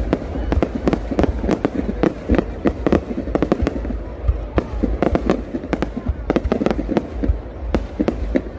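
Fireworks display going off in a dense, irregular barrage of cracks and bangs, several a second, over a continuous low rumble.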